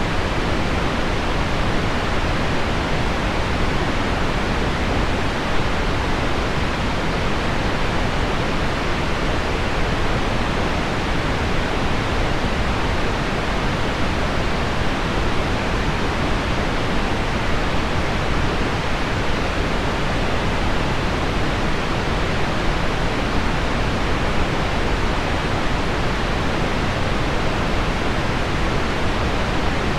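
Steady, unchanging pink noise mixed with a recording of heavy rain on window glass, with no single drops or other events standing out.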